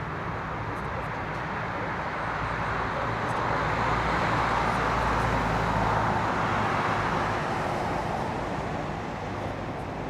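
Jet airliner's engines passing close by, a broad rush with a low rumble that swells for a few seconds and then fades.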